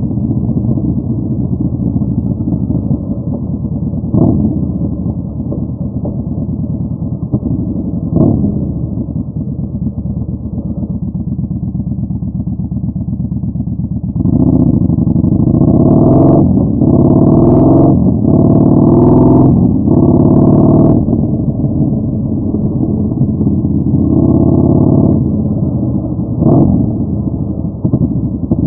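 Yamaha Bolt 950's air-cooled V-twin running through a Vance & Hines Twin Slash staggered exhaust while riding, first at a steady low throb. About halfway it grows much louder, with several surges one after another as the revs climb and fall. It then settles back to a steady run, with one more brief surge near the end.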